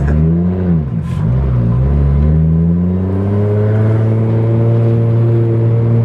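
Tuned 800-horsepower Toyota Supra engine heard from the open convertible's cabin, revving up and down briefly, then pulling with a slow, steady rise in pitch as the car accelerates gently.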